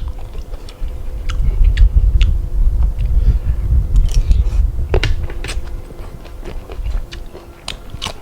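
A person chewing and biting food close to the microphone, with scattered sharp clicks of the mouth and food.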